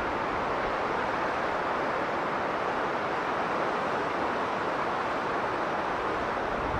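Strong blizzard wind: a steady rushing noise with no gusts or breaks.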